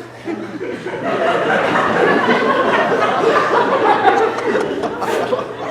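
Laughter, dense and continuous, rising in about half a second in.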